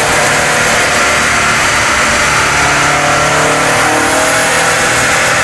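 Turbocharged Subaru Impreza flat-four engine running loud on a rolling-road dyno, its pitch holding fairly steady with small rises and dips over a constant rush of roller and fan noise.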